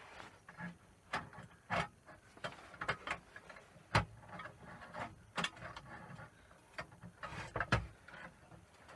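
Irregular clicks and knocks of hands working on an old Burgess BBS 20 bandsaw, opening it up to look at a blade that isn't turning. The sharpest knock comes about four seconds in.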